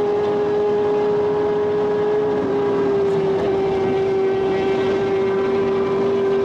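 Audi R8 engine running hard at high highway speed, heard inside the cabin over heavy wind and road noise; its steady note dips slightly about two and a half seconds in as the car eases off.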